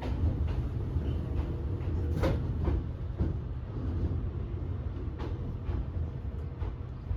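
Fujikyu Railway train running, heard from inside the carriage: a steady low rumble with irregular knocks and rattles from the car body, the loudest about two seconds in and another about five seconds in.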